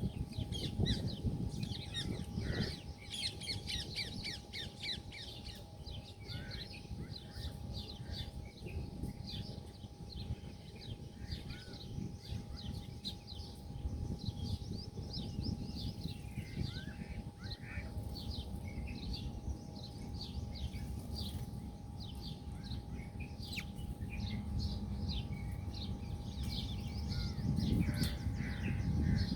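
Many birds chirping and calling at once in a busy, overlapping chatter, over a steady low rumble.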